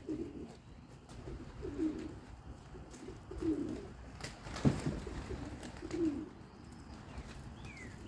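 Pigeons cooing, one low coo about every one and a half to two seconds, with a single sharp knock about halfway through and faint high falling chirps near the end.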